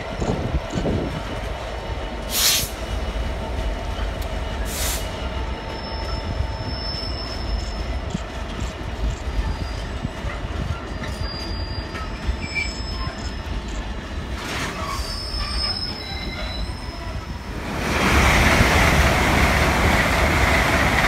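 Container freight train hauled by a Class 66 diesel locomotive rolling past, its wagon wheels squealing in thin, held high tones, with two sharp clicks about two and a half and five seconds in. Near the end a second, passenger train comes past closer and much louder.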